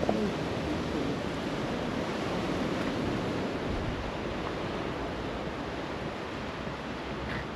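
Continuous wash of sea waves and surf on the shore, with some wind.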